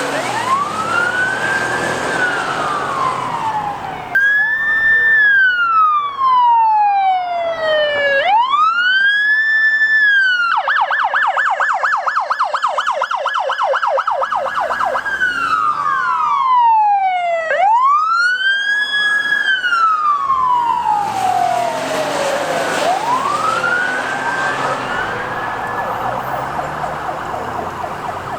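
Police car electronic sirens, several overlapping at times, on a slow rising-and-falling wail. About ten seconds in they switch to a rapid yelp for several seconds, then return to the wail.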